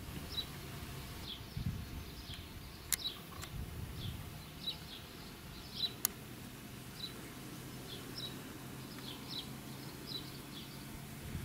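Small birds chirping in the background, short high calls scattered irregularly through, over a low rumble on the microphone, with two sharp clicks about three and six seconds in.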